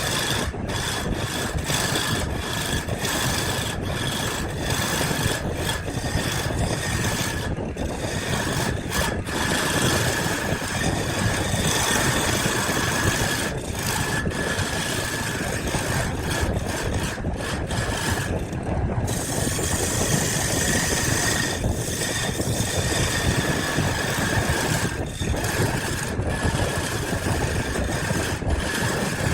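Electric woodworking power tool running steadily against wood, with a constant high whine over an even grinding noise.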